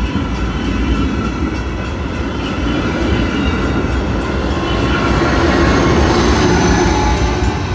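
Amtrak passenger train rolling through the station close by, with regular wheel clacks over the rail joints and a steady high metallic ringing from the wheels. It grows loudest about six seconds in.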